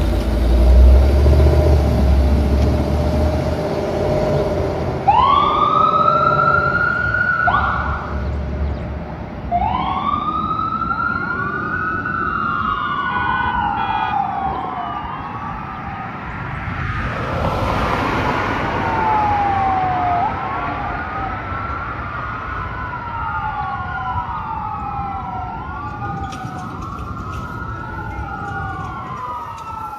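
Fire engine siren wailing, its pitch rising and falling over and over, the sweeps coming faster and overlapping in the second half. A heavy engine rumble is heard under it in the first few seconds.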